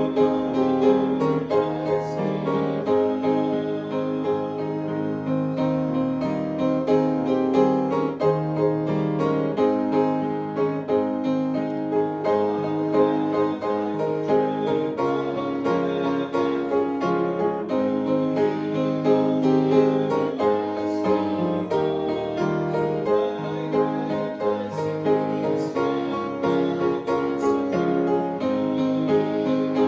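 Piano playing a slow, steady hymn-style piece with sustained chords.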